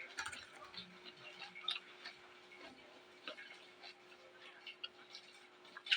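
Quiet chewing of raw vegetables: scattered faint clicks and small crunches from the mouth, over a faint steady hum.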